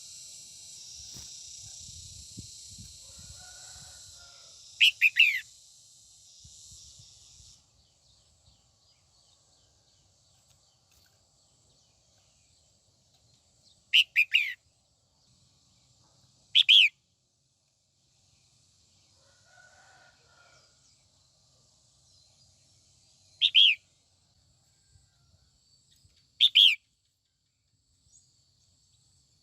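Female red-whiskered bulbul calling: five short, loud phrases spaced several seconds apart, each a quick run of sweeping notes. A steady high hiss sits under the first phrase and drops away about seven seconds in.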